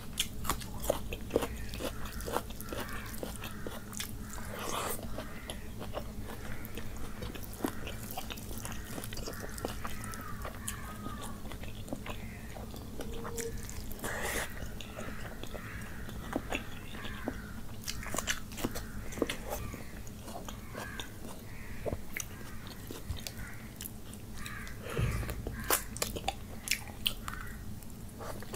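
Close-miked eating by hand: biting and chewing rice and curry with wet mouth sounds and sharp crunches of raw onion, over a steady low hum.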